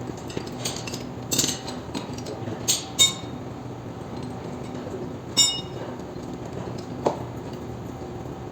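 Metal tools and parts clinking and knocking in about five separate strikes, a couple of them ringing briefly, over a steady low hum.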